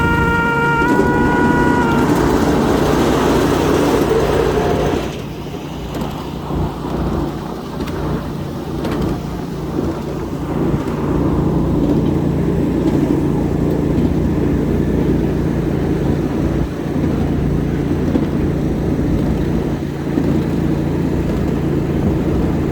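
A 7.5-inch gauge ride-on train runs along the track with a steady low hum and rumble. Its horn sounds briefly and cuts off about two seconds in, followed by a louder rushing noise that eases off about five seconds in.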